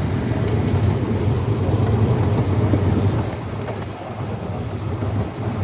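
Amusement-park train ride running: a steady low rumble of the train rolling along the track, with wind buffeting the microphone. The rumble eases off about halfway through.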